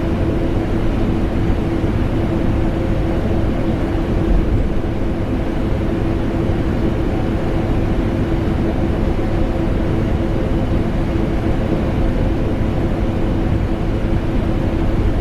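Vacuum cleaner and air conditioner running together without a break: a continuous rushing noise with a constant hum in it.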